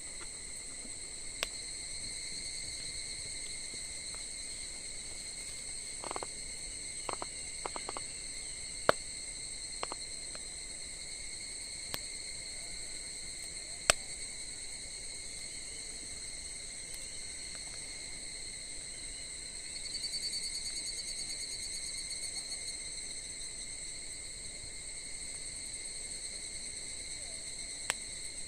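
Wood fire crackling, with sharp scattered pops, over a steady high-pitched trill of crickets that swells and pulses briefly about two-thirds of the way through.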